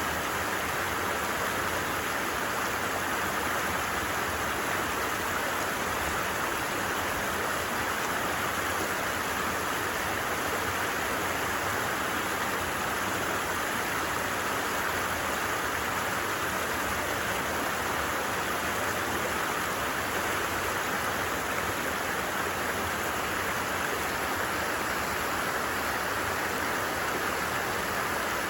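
Creek water running over stones in a steady, unbroken rush.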